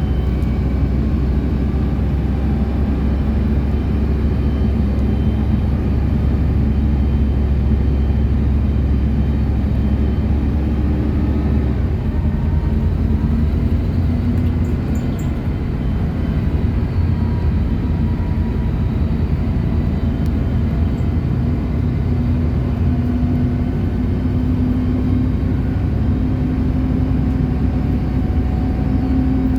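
City bus driving along its route: steady engine and road rumble. The engine note shifts about twelve seconds in and rises slowly near the end as the bus picks up speed.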